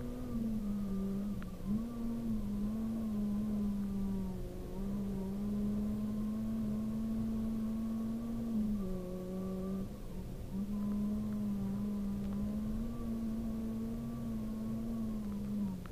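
Honda Civic Type-R rally car's engine heard from inside the cabin, running hard at high revs. Its pitch dips briefly and climbs back several times, with a short lift about ten seconds in.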